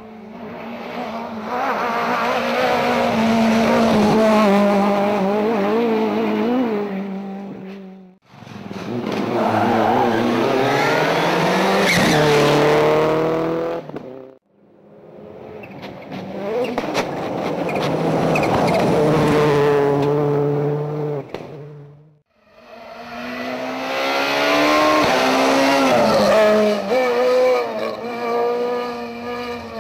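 Rally cars driven hard on a special stage, engines revving up and down through gear changes. It comes as four separate passes, each cut off abruptly, about 8, 14 and 22 seconds in.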